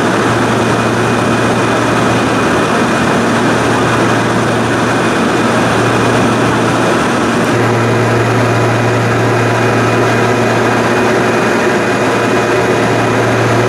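Steady, loud engine drone with a constant low hum; its tone changes abruptly about seven and a half seconds in.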